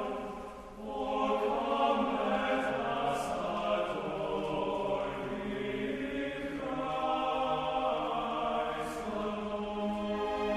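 Choir singing slowly in long held chords, the harmony shifting a few times.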